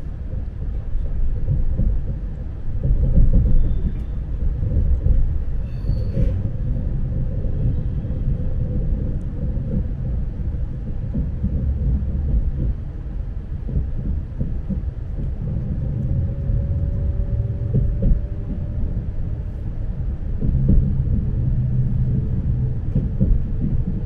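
Lastochka electric train running, heard from inside the carriage: a steady, uneven low rumble of the wheels and running gear on the track, with faint brief tones joining in past the middle.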